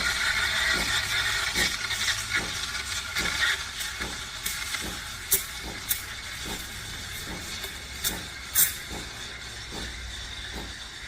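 Espresso machine running: a steady hiss over a low hum, easing off after the first few seconds, with a few sharp clicks.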